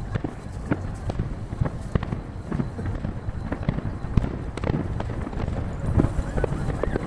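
Aerial fireworks shells bursting in quick succession, with a dense run of sharp cracks and deeper booms over a low rumble, heard from far off. The audio is sped up to three times normal speed.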